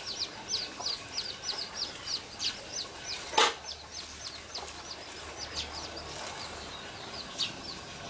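Birds peeping: rapid high calls, each dropping in pitch, about three a second, thinning out after about three seconds. A single sharp click about three and a half seconds in.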